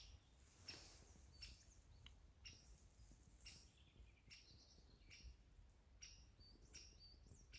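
A bird giving short, sharp calls, faint and repeated about once a second, over a faint low rumble.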